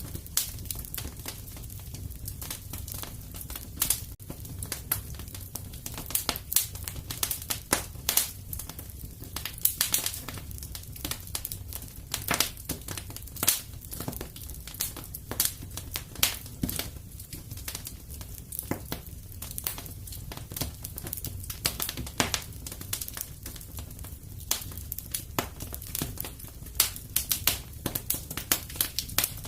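Fire in a fireplace crackling: many sharp, irregular pops over a low, steady rumble.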